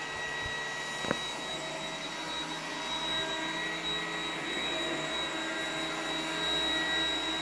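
iRobot Roomba 980 robot vacuum running in spot-cleaning mode: a steady high-pitched motor hum over a rushing suction noise, with a single sharp click about a second in.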